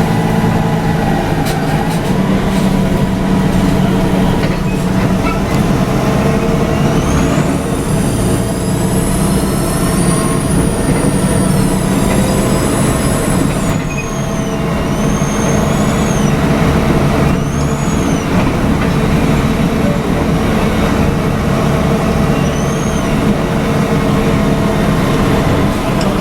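Volvo B7RLE city bus heard from the rear seat: the rear-mounted diesel engine drones steadily while driving, with high whistling tones rising and falling over it, a long stretch about a third of the way in and short arched chirps after. These whistles are the bus's odd noises, which may be the turbo.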